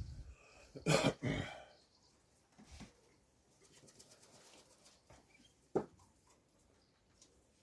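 Pigeons at the loft, with two loud wing flaps about a second in, then softer movement and a single sharp tap near six seconds.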